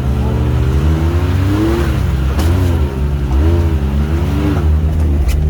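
Can-Am Maverick X3 side-by-side's three-cylinder turbocharged engine revving up and down repeatedly while crawling over rough trail, with a few short knocks.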